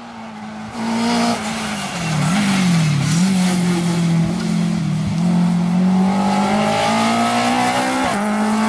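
A rally car's engine is being driven hard past the spectator point. The revs dip and recover twice about two to three seconds in, then climb steadily, with a brief break near the end.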